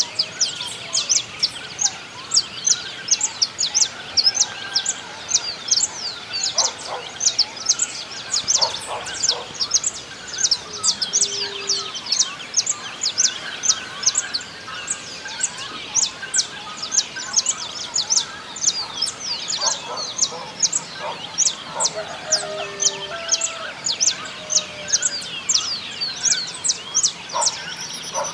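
Many small songbirds chirping densely and without a break, quick high notes several times a second. Now and then, about a quarter of the way in and again past the middle, lower, longer calls from chickens join in.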